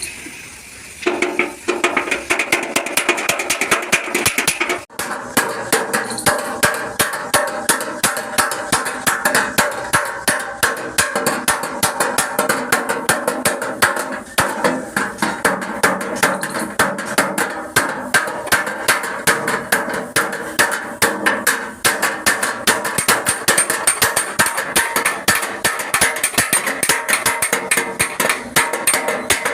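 Hammer beating out dents in a truck cab's sheet-metal panel: a steady run of rapid blows, several a second, with the metal ringing.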